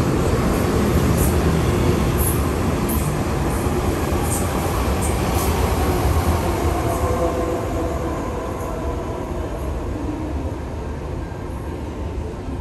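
Hong Kong MTR Airport Express CAF train running through a station without stopping: a steady heavy rumble with faint high ticks repeating about once a second, fading in the second half as it moves away.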